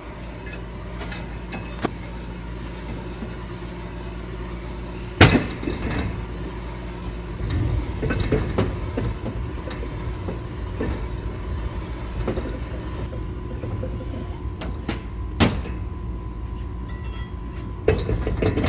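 A steady, low machine hum in a workshop, broken by sharp metal knocks and clatter of parts being handled; the two loudest knocks come about 5 and 15 seconds in.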